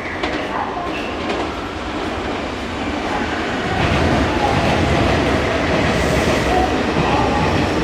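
Nankai electric commuter train running along the station platform, getting louder about four seconds in.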